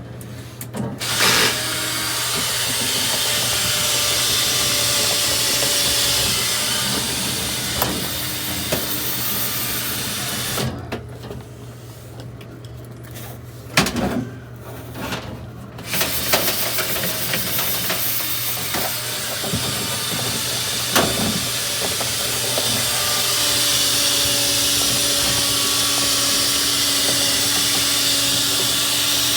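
A motor-driven tool running with a loud rushing hiss of air, during dryer vent cleaning; it cuts out for about five seconds near the middle, then starts up again, and a steady low hum continues underneath.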